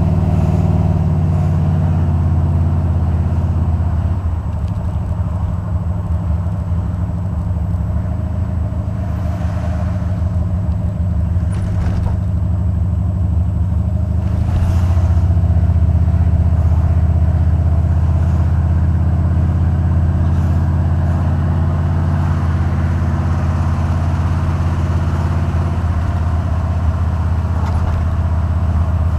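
Buick 455 Stage-1 V8 engine running steadily, with a steady low exhaust note, its header gaskets newly replaced so that, by the owner's account, it no longer has an exhaust leak. The engine note drops a little about four seconds in and comes back up about halfway through.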